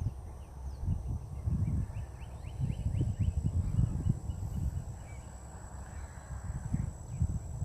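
Wind buffeting an outdoor microphone in irregular low gusts, with faint, quick, high bird chirps in the background during the first few seconds.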